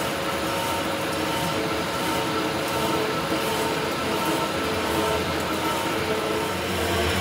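A workshop machine running steadily, a constant mechanical hum with several held whining tones.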